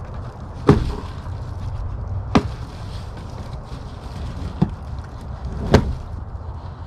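Four sharp knocks, irregularly spaced one to two seconds apart, as a packaged steel bumper and its packing are handled during unboxing.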